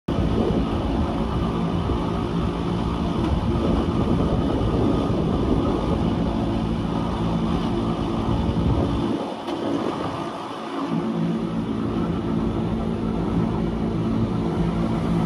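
Wengernalpbahn electric rack train running, a steady rumble with a constant motor hum. The low rumble drops away briefly about nine seconds in and returns about two seconds later.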